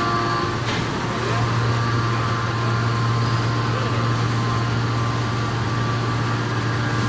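Ring forging press machinery running with a loud, steady low hum, broken by one sharp metallic clank about a second in.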